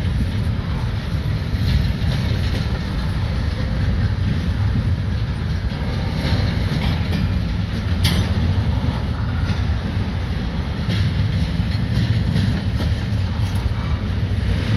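Double-stacked intermodal well cars of a freight train rolling past: a steady rumble of steel wheels on rail with scattered clicks, a sharp one about eight seconds in.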